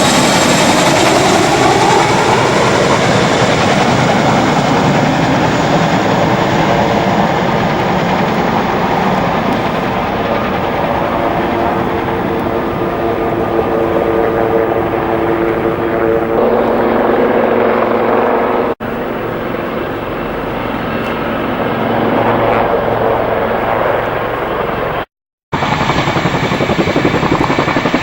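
CH-47 Chinook tandem-rotor helicopter running loud and steady. About three quarters of the way through, the sound cuts out completely for half a second.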